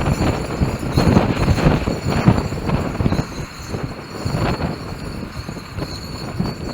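Gusty wind buffeting the microphone in uneven rumbling surges, strongest in the first half, with some crackling rustle over it.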